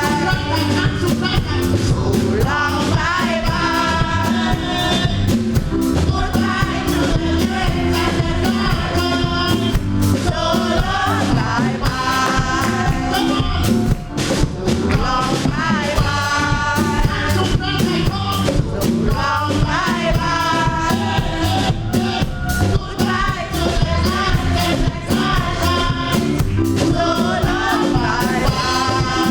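Live gospel music: a choir singing over a band with bass and drum kit, in a steady beat.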